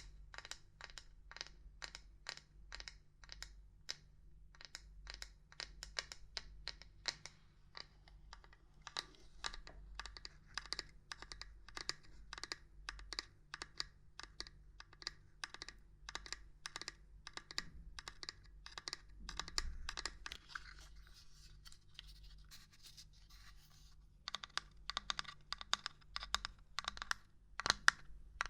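Quick, light, irregular knocking and tapping on hard objects, about three taps a second, for ASMR. Around two-thirds of the way through the taps give way to a few seconds of soft scratching, then the tapping picks up again, a little faster.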